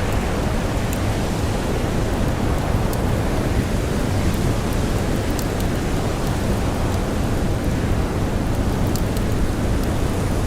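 Blizzard wind blowing steadily and heavily, with a campfire crackling now and then as small sharp pops over the top.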